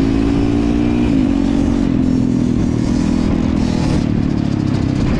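Dirt bike engine running at steady revs, dropping in pitch about a second in and carrying on at the lower pitch.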